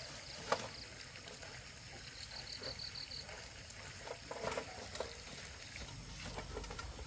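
Quiet outdoor ambience with scattered sounds: a sharp click about half a second in, a quick run of about six high pips a couple of seconds in, and a few light knocks later on.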